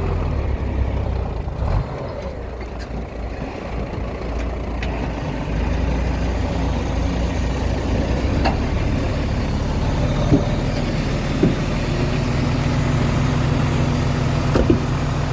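Diesel engine of a Komatsu D21A mini bulldozer running steadily, with a few sharp metallic knocks in the second half.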